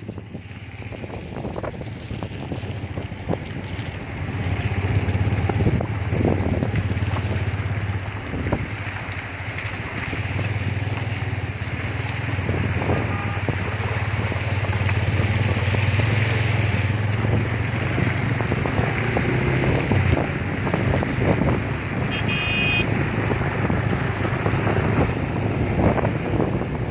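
Motorcycle running at road speed with heavy wind buffeting on the microphone, a steady low drone under the rush. A short horn beep near the end.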